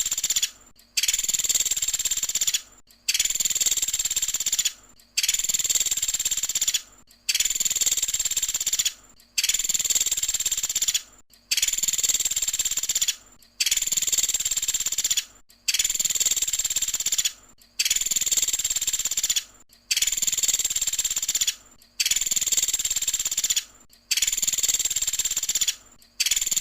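Recorded calls of the pelatuk sampit, a small woodpecker-type bird kept by Indonesian songbird keepers. Each call is loud and high and lasts about a second and a half, and it repeats every two seconds or so, about thirteen times in a row.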